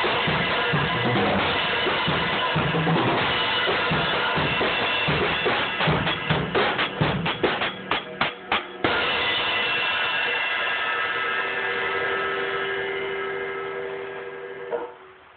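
Drum kit playing, with the top end cut off so it sounds dull. About halfway through comes a run of separate hits that get quicker, followed by a long ringing finish that fades and then stops abruptly near the end.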